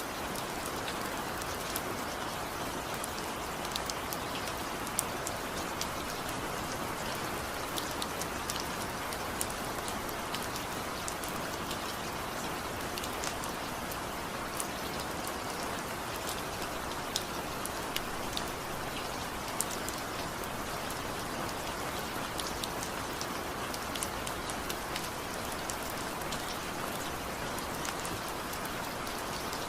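Steady rain falling, an even hiss with many individual drops pattering sharply on a surface. No thunder or music.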